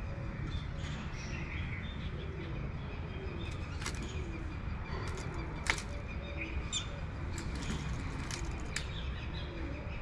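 Birds giving scattered short, sharp chirps and calls, a handful of them standing out clearly, over a steady low background rumble.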